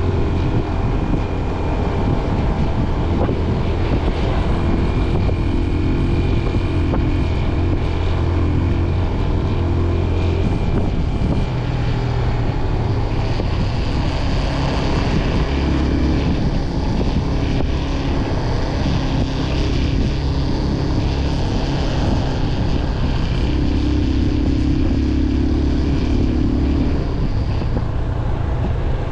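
Motorcycle engine running under way, its pitch shifting a few times as the throttle and gears change, with wind rushing over the microphone.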